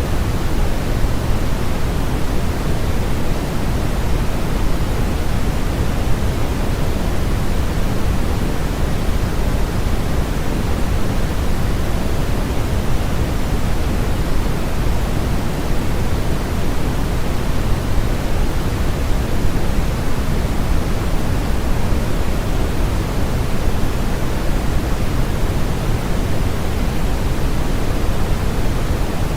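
Steady, unchanging synthetic noise, a smooth hiss with more weight in the lows than in the highs, closer to pink noise than to flat white noise.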